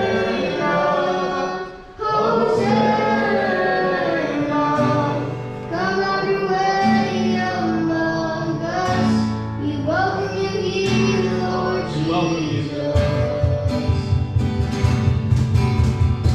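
Live worship band: voices singing a slow praise song over sustained chords. About thirteen seconds in, a steady drum and bass beat comes in under the singing.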